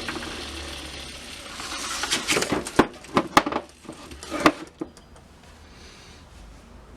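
A run of irregular knocks and clicks from hard objects being handled, lasting about three seconds, after a steady hum fades away in the first second.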